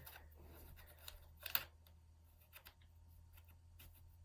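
Faint scraping and small clicks of a plastic guitar pick working along the seam of a laptop's plastic bottom panel, prying at its snap clips; the loudest click comes about a second and a half in, with a few weaker ones after.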